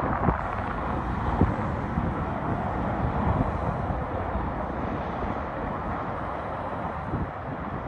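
Freight train running past with a steady rumbling, rushing noise and a few short knocks.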